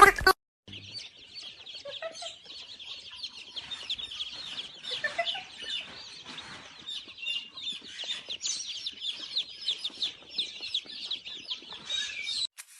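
Many birds chirping at once: a dense run of short, high chirps that overlap continuously, with a few lower calls about two and five seconds in.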